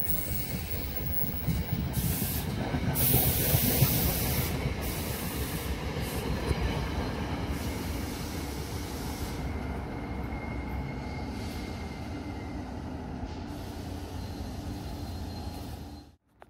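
NJ Transit commuter train cars passing and pulling away: a continuous rumble and clatter of wheels on rail, with a burst of rushing noise loudest about three to four seconds in. It eases off as the rear cab car goes by and cuts off suddenly near the end.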